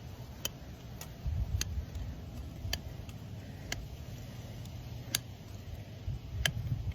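Farrier's hand tools working a horse's hoof during a trim: sharp, irregular clicks, roughly one a second, over a low rumble.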